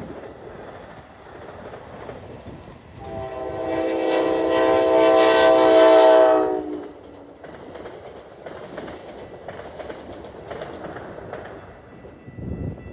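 Amtrak Hiawatha locomotive horn sounding one long blast of about three and a half seconds, a chord of several steady notes, starting about three seconds in. After it the passing train goes on as a lower rumble with light wheel clicks over the rails.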